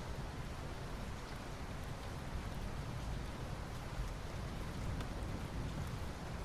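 Soft rain falling on asphalt: a steady hiss of drops with faint scattered ticks, over a low rumble.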